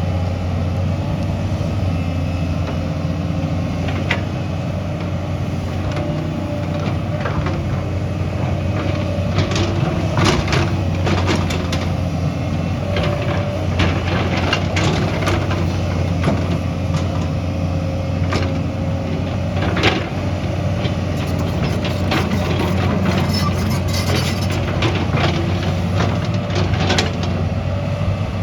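Diesel engine of heavy earthmoving machinery running steadily, with repeated short metallic clanks and knocks from about nine seconds in.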